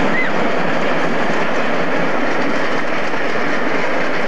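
Passenger train of coaches running along the track and drawing away, a steady, loud rumbling noise of wheels on rail.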